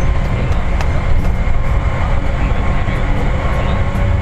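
Seibu 4000 series electric train running between stations, heard from inside the passenger car: a steady rumble of wheels on the rails and of the running gear, with faint steady tones above it.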